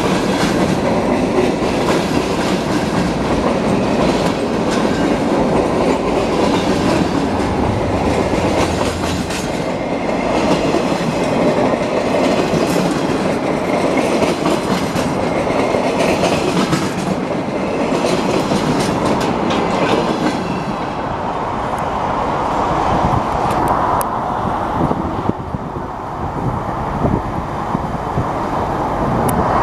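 Freight train of empty centerbeam and log flatcars rolling past close by: a steady rumble with the steel wheels clacking over the rail joints and crossing. The sound eases somewhat in the last several seconds.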